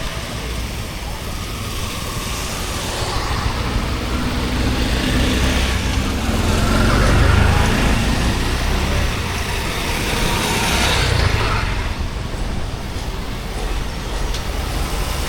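Road traffic on a wet city street in the rain: vehicles passing over the wet road over a steady hiss of rain, swelling louder about halfway through and again a few seconds later.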